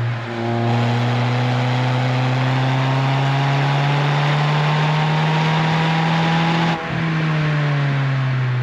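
Renault Twingo RS Gordini's four-cylinder petrol engine through an Inoxcar 80mm stainless-steel aftermarket exhaust, pulling under acceleration with the engine note rising slowly. The sound dips briefly twice, about a quarter second in and about seven seconds in, as the gears change.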